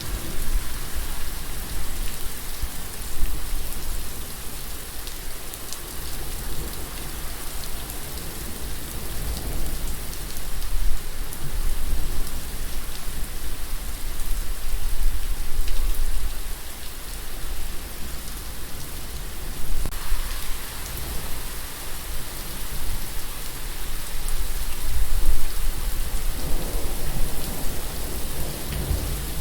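Steady rain falling and pattering on a surface, with a low rumble underneath that comes and goes.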